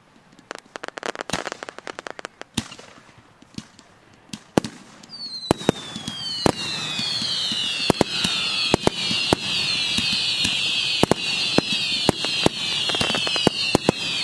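Fireworks display: aerial shells going off with a string of sharp bangs. From about five seconds in, a dense run of shrill whistles falling in pitch sets in over a steady rushing noise, with the bangs continuing.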